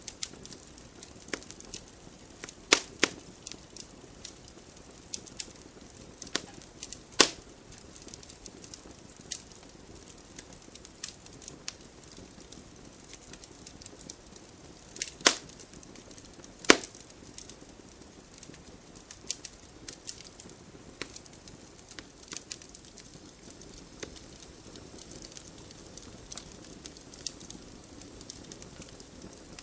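Wood fire crackling in a fireplace: irregular sharp pops and snaps of burning logs over a faint hiss, with a few louder cracks about three and seven seconds in and two more past the middle.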